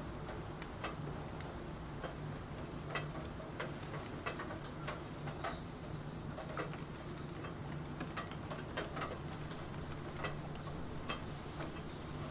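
Computer keyboard typing, with scattered, irregular key clicks over the steady hiss of rain.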